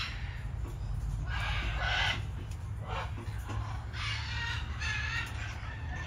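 Birds giving harsh, squawking calls, one roughly every second, over a steady low rumble.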